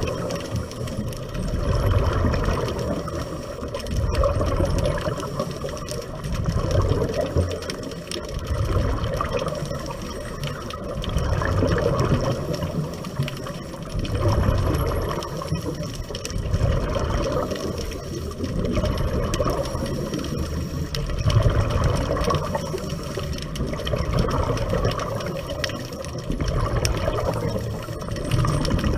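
Underwater sound of a scuba diver breathing through a regulator: muffled bubbling and rushing swells in a slow rhythm, rising and fading every two to three seconds.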